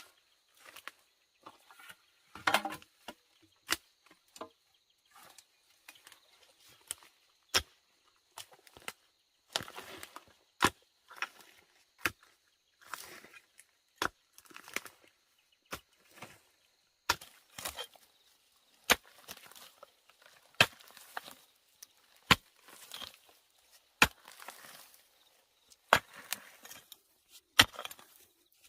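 Wood being chopped with a blade: sharp single strikes, about one every one and a half to two seconds, with fainter scraping and knocking between them.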